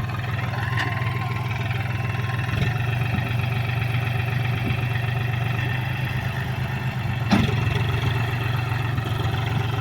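John Deere 5045D tractor's three-cylinder diesel engine running steadily at low revs, with one sharp knock about seven seconds in.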